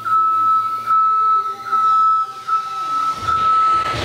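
A steady high-pitched electronic tone, swelling slightly a little more than once a second, with music playing underneath.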